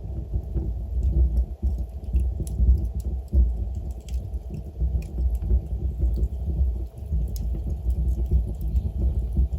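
Logs burning in a fireplace: a steady low rumble of the fire with scattered sharp crackles and pops.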